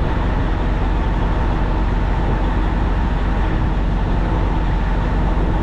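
Steady, even rumble of an idling diesel engine, with a faint constant hum above it.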